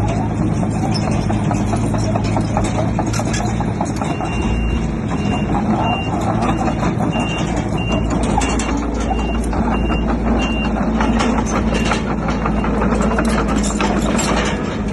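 Heavy diesel machinery running under load with clanks and clatter, while a back-up alarm beeps at an even pace from about four seconds in to about eleven seconds.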